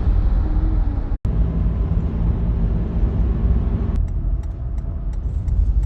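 Toyota 4Runner driving at road speed: a steady low rumble of road and engine noise, broken by a brief dropout about a second in.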